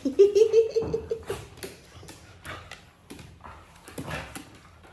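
Dog whining once for about a second, a steady high whine, followed by scattered light clicks and rustles.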